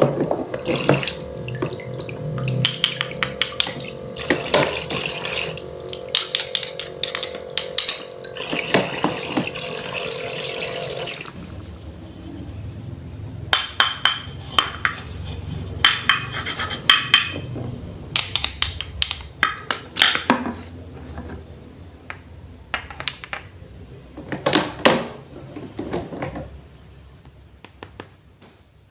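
Water running from a small toy-kitchen faucet, its little pump motor humming, with clicks and taps of small plastic pieces being handled. The hum and water stop about eleven seconds in, and the clicking and tapping go on.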